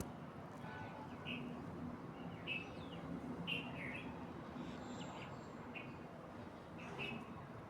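Birds chirping in short, repeated calls, some with a quick downward slide, about once or twice a second over a steady low background noise.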